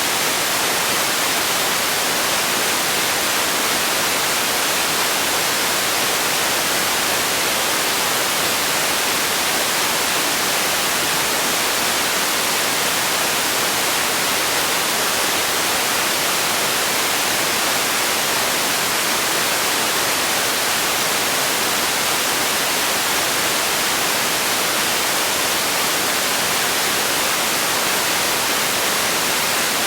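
Steady white noise: an even, unchanging hiss, brightest in the treble, at a constant level.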